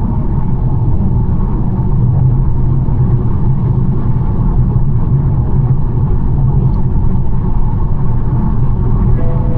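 BMW 1 Series driving at a steady pace, with a steady low rumble of engine and tyre noise.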